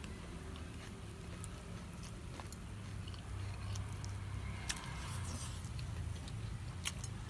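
A person chewing a mouthful of hand-eaten rice and chicken, with a few sharp clicks scattered through, over a low steady hum.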